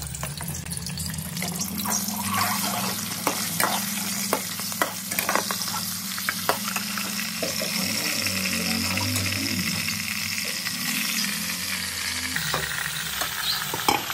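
Raw chicken pieces sizzling in hot oil in a metal pot, with a steel ladle clinking and scraping against the pot as they are stirred, the clinks coming thickest in the first half.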